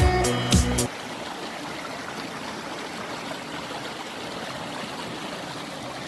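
Background music with a steady beat cuts off about a second in, leaving the steady sound of running stream water.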